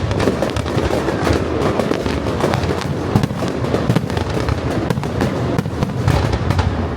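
A fireworks display going off in a dense barrage: many rapid, overlapping bangs and crackles with no break.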